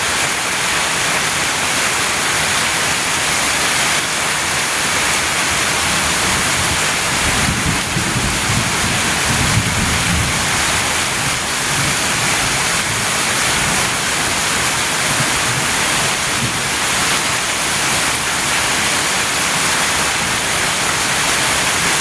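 Very heavy rain pouring steadily, an even hiss. A low rumble swells for a few seconds about a third of the way through.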